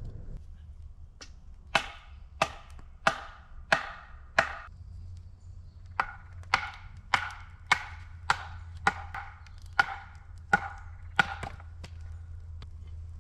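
Axe chopping wood: two runs of sharp, ringing strokes, about one and a half a second, about five and then about nine, with a short pause between.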